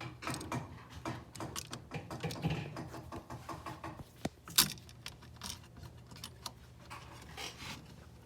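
Light, irregular clicks, taps and rattles of a wall switch and its wires being handled and pushed into the electrical box, with one sharper click about four and a half seconds in.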